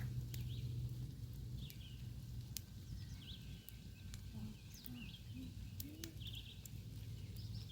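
Small birds chirping with many short, quick calls, over a steady low hum, with a few sharp clicks.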